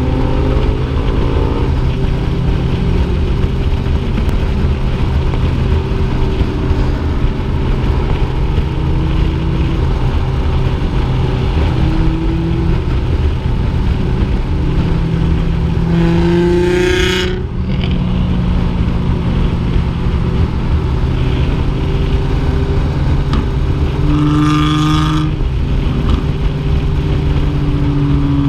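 Yamaha FZ6R motorcycle's inline-four engine running at a steady cruising speed while riding. About sixteen seconds in, and again about twenty-four seconds in, an engine revs up sharply for a second or so, the first time cutting off suddenly.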